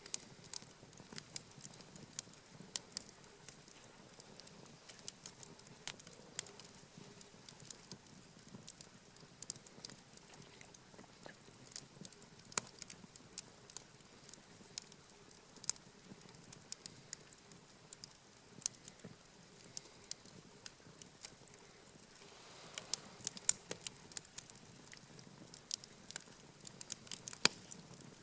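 Wood campfire crackling, with irregular sharp pops that come thicker near the end.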